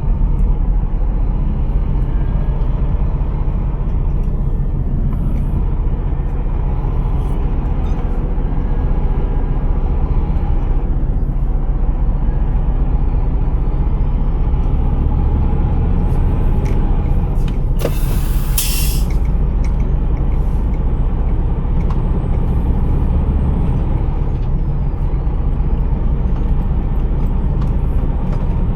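Scania R480 truck's engine running with a steady low rumble. About two thirds of the way through comes one short burst of compressed-air hiss.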